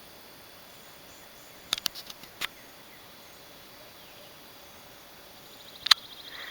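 Quiet summer field ambience with a faint, steady insect drone, broken by a quick cluster of sharp clicks about two seconds in and a single sharp click near the end, followed by a short pulsing buzz.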